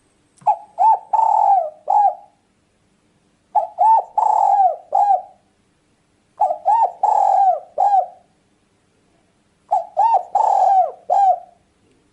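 Spotted dove (tekukur) cooing: four repeated phrases about three seconds apart, each two short notes, a longer drawn-out coo and a short closing note.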